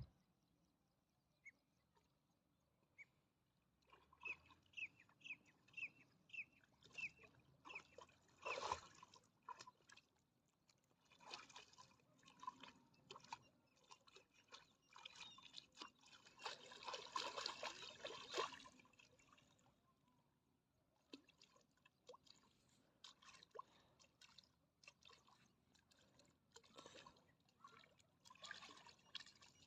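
Faint water trickling and splashing in uneven spells, the longest and loudest spell about two-thirds of the way through. A run of short, evenly spaced high chirps comes early on.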